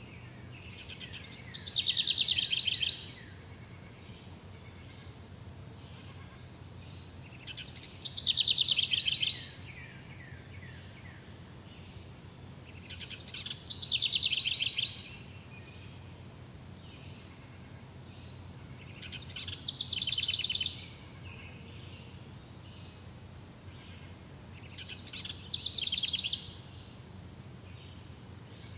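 A songbird repeating the same song five times, about six seconds apart. Each song is a rapid trill that builds in loudness and stops abruptly. A steady high, faint chirring continues behind it.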